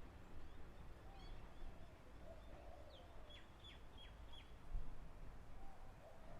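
Birds calling over a faint low rumble: a repeated wavering call recurs, and a quick run of four short chirps falling in pitch comes about halfway through.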